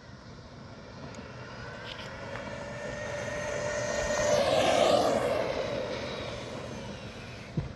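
A motor vehicle passing by: its engine sound swells steadily to a peak about five seconds in, then fades as it moves away.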